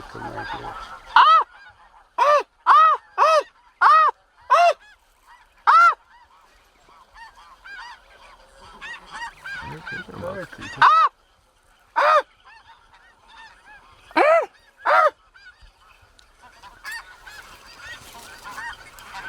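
Snow goose calling: loud, short, high-pitched honks, about two a second for the first few seconds, then scattered calls, over fainter calling of more geese.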